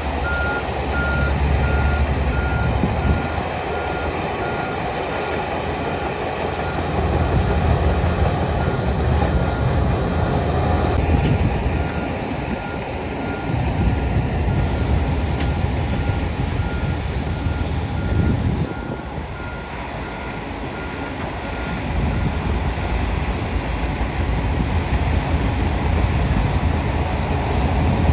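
Reversing alarm on heavy earthmoving equipment beeping in a steady repeating pattern, stopping near the end, over the low rumble of diesel engines that rises and falls as the machines work.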